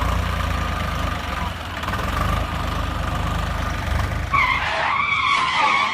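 A tractor engine runs steadily with a fast low pulse. About four seconds in, a wavering high-pitched sound joins it.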